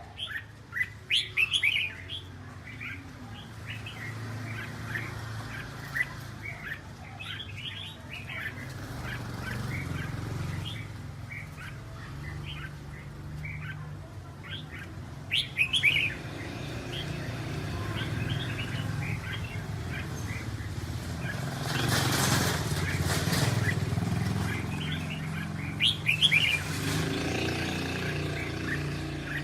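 Red-whiskered bulbuls chirping and singing in short, quick phrases, louder about a second in, around halfway, and near the end. A steady low hum runs underneath, and a broad rushing noise swells for a few seconds about three-quarters of the way through.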